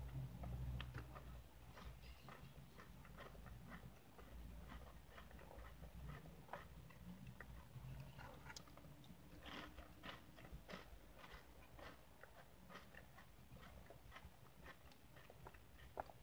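Faint close-up chewing of Oreo cookies and whipped cream: many small, irregular wet mouth clicks. Near the end the spoon clicks against the plastic cup.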